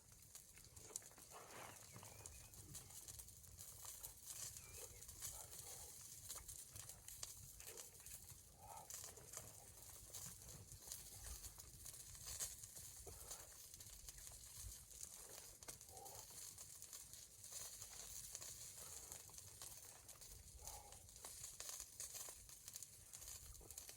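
Near silence with faint, irregular crackling and rustling.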